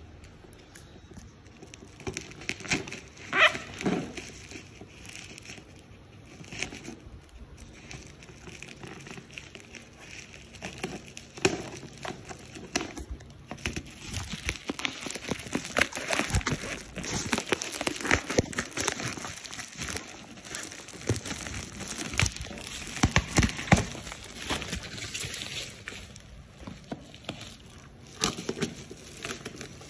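Handling noise: a run of small clicks, taps and rustles, busiest and loudest in the second half.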